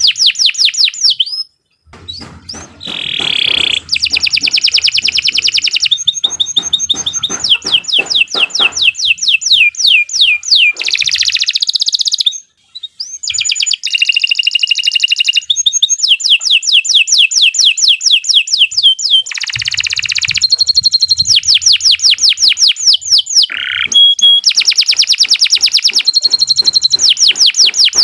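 Domestic canary singing a long, loud song of fast trills, each phrase a rapid run of repeated notes before switching to the next. It breaks off briefly near the start and again about halfway through.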